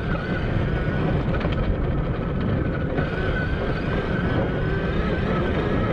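Wind buffeting a GoPro microphone that has no foam windscreen, with a faint steady whine from the Admitjet Armor electric dirt bike's motor underneath.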